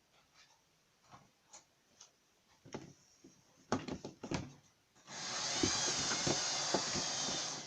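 Light plastic clicks and knocks of model railway coaches being handled and set on the track. About five seconds in, a steady rushing hiss starts abruptly and runs for about two and a half seconds, louder than the clicks.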